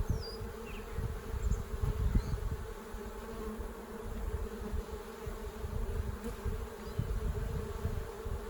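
Honey bees buzzing in a steady hum as a hive is opened for inspection, with low rumbling from wind or handling on the microphone.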